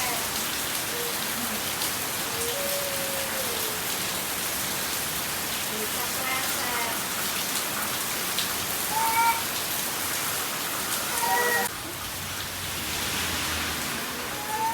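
Heavy rain falling steadily, an even hiss of rain on the ground and puddles. Near the end it turns abruptly duller.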